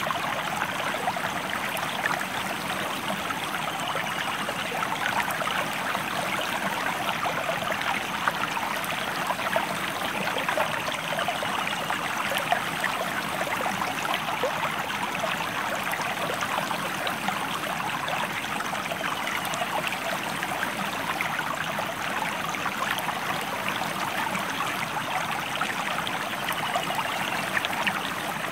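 A river stream flowing steadily: an even rush of water with fine splashing and trickling all through.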